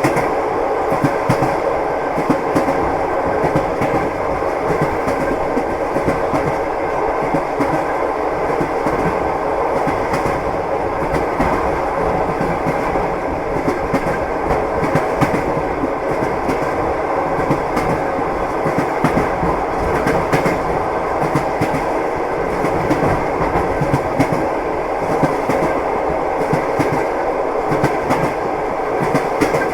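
Train wheels clattering over the rails, with a steady running rumble and frequent small clicks.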